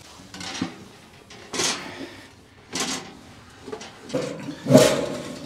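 A run of short rustling, crunching noises, about five of them roughly a second apart, the loudest near the end with a dull knock in it.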